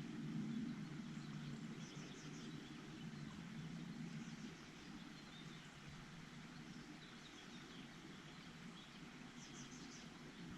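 Small birds giving short, high chirps a few times, most clearly about two seconds in and near the end, over a faint, steady low rumble.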